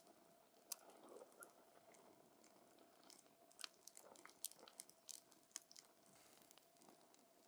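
Wood campfire crackling quietly: scattered sharp pops and snaps over a faint hiss, coming thickest in a burst of snaps mid-way and thinning out near the end.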